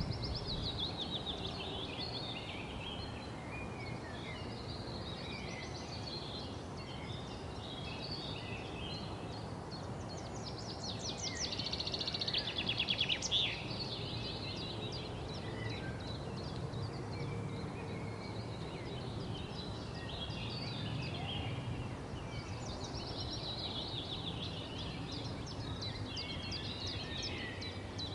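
Several small birds chirping and twittering over a low, steady background hum, with a louder rapid trill about eleven to thirteen seconds in.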